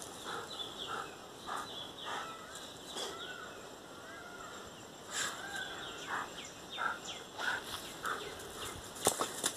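Birds chirping and calling, with many short repeated calls and a few wavering whistled notes.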